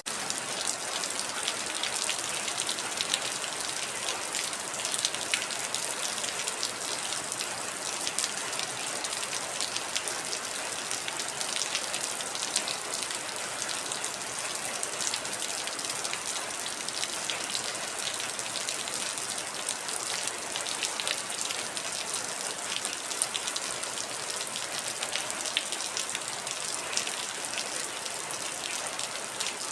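Steady heavy rain: an even hiss of rainfall dense with the crisp ticks of individual drops striking a surface.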